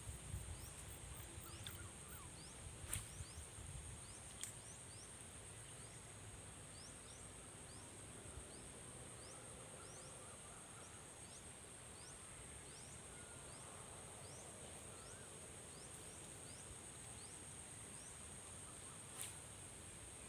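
Faint insect chorus: a steady high-pitched buzz, with a short rising chirp repeating about every two-thirds of a second. A few sharp clicks stand out, and there is some low rumble in the first few seconds.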